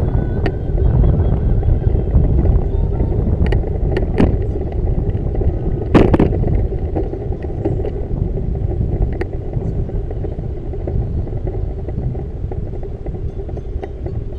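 Steady low rumble of a bicycle ride, broken by a few sharp clicks, the loudest about six seconds in.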